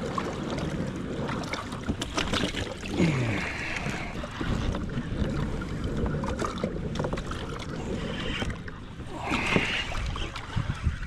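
Water sloshing against a kayak's hull over a low, steady rumble, with scattered small knocks and two brief louder splashes.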